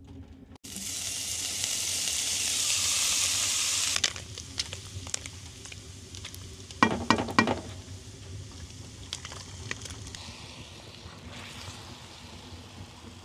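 Diced sausage frying in hot oil in a pan, the sizzle starting suddenly about half a second in and loud for the first few seconds. After that a quieter sizzle goes on under a wooden spoon stirring and scraping the pan, with a brief clatter around seven seconds.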